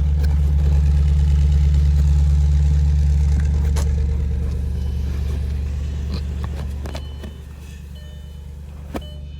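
Audi RS6 engine idling after a cold start. Its deep, steady drone eases off and drops noticeably quieter about seven seconds in.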